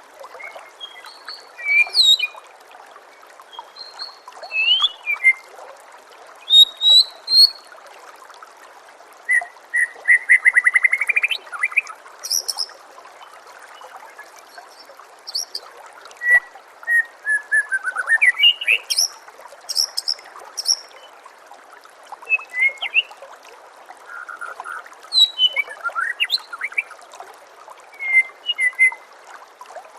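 White-rumped shama (murai batu) singing a varied string of loud whistles, trills and sharp chirps in short phrases a second or two apart, including a rising buzzy trill around ten seconds in, over a steady hiss of trickling water.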